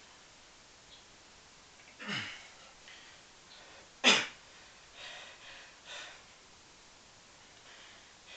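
Forceful breaths blown out hard through the mouth and nose by a man straining through pistol squats, one sharp puff about two seconds in, a much louder, sharper one about two seconds later, then two softer breaths a second apart.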